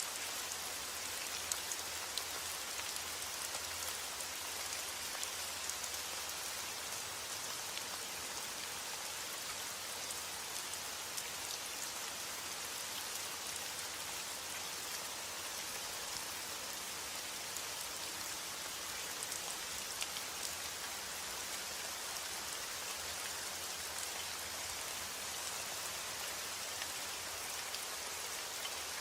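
Steady heavy rain falling on a roof: an even hiss of rain with many fine drop ticks and a few louder drop hits.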